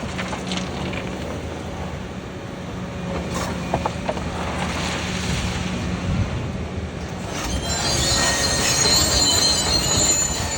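Doosan DX350 crawler excavator's diesel engine running steadily under work, with some knocks and a rushing, scraping stretch in the middle. In the last few seconds there is loud high-pitched metallic squealing and grinding.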